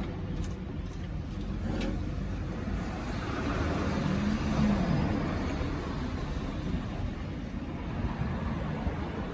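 A car running, a steady low rumble with a faint rise and fall in pitch near the middle.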